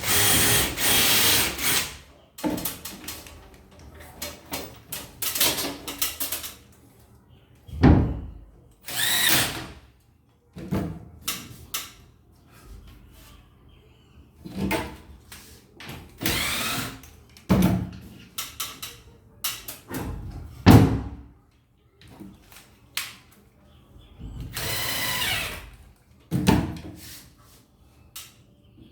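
Electric drill/driver run in repeated short bursts of a second or two, typical of driving screws to fix a cabinet's back panel, with sharp knocks in between.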